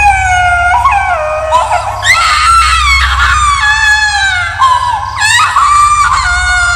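Horror sound effect of high-pitched wailing cries, several overlapping voices gliding up and down in pitch, over a steady low drone.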